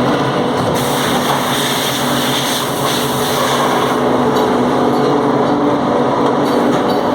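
Steady drone of running factory machinery, a loud, even noise with a constant hum underneath.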